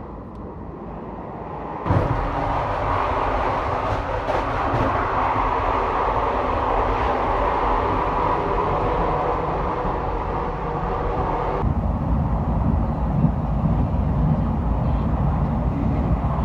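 Electric train running on the rails, a steady rumble. It jumps abruptly louder about two seconds in and turns deeper near the end.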